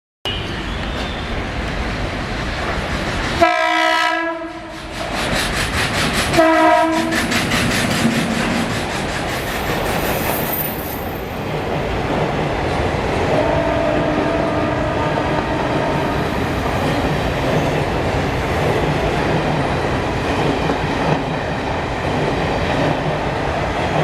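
WAP-7 electric locomotive's horn sounding twice, a blast of about a second and then a shorter one about three seconds later, over the steady rumble of a passenger train running, with wheels clattering over the rail joints.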